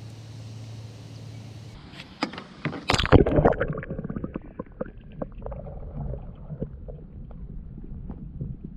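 Knocks and clatter against a plastic kayak as gear is handled aboard. The loudest knocks come about three seconds in, followed by lighter, irregular clicking and bumping over a low rumble.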